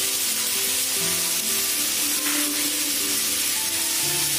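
Fish and vegetables sizzling steadily in hot mustard oil in a wok, with background music playing over it.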